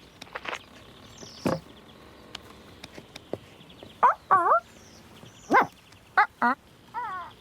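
Cartoon sound effects of a bird chick calling: a few faint knocks, then from about four seconds in, a string of about six short calls, each sliding in pitch.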